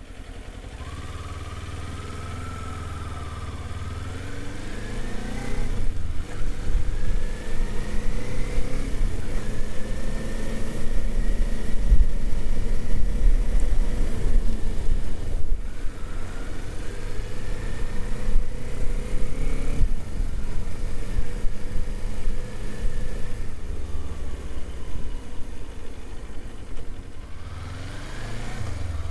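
Kawasaki Z400 parallel-twin engine pulling away and accelerating through the gears: the engine note climbs and drops back at each upshift, several times, over a loud low rumble of wind and road noise that grows as speed builds.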